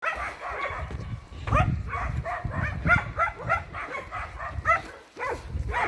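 A dog barking repeatedly, short barks coming about three a second, over a low rumble.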